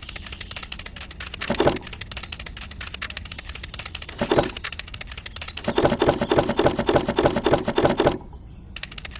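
Rapid, even clicking, like a fast typewriter, with two short louder pitched bursts about one and a half and four seconds in, and a longer loud pitched rattle from about six to eight seconds in. It stops briefly before the clicking resumes.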